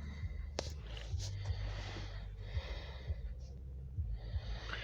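A person breathing close to the microphone, in soft swells, with a few faint clicks and a low steady hum.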